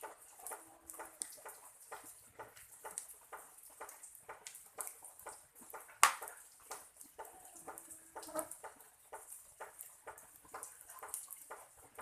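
Rain dripping and ticking irregularly on leaves, with one sharp click about halfway through.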